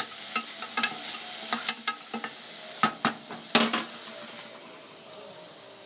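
Salted onions sizzling in a pot while a spoon stirs them, knocking and scraping against the pot. The stirring stops about four seconds in and the frying goes on more quietly.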